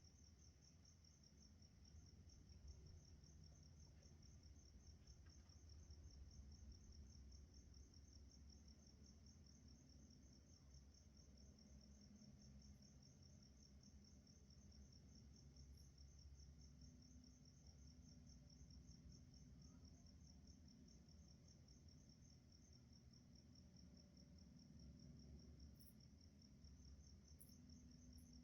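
Faint, steady high-pitched chirping of crickets, pulsing evenly without a break, over a faint low rumble.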